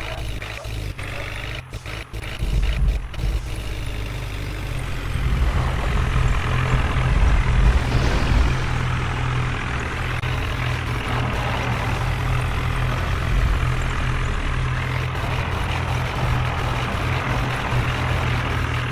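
Heavy diesel engine running, with a few knocks early on, then working harder and louder from about five seconds in.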